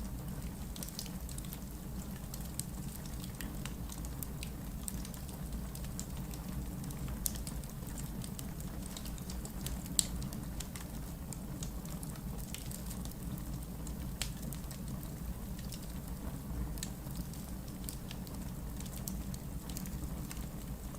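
Wood fire burning in a fireplace: a steady low rumble of flames with scattered sharp crackles and pops from the logs, one louder pop about ten seconds in.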